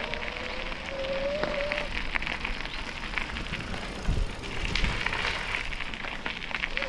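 Bicycle tyres rolling over a gravel towpath: a steady crackling crunch full of small clicks. A faint thin whine comes in about a second in and fades after two seconds.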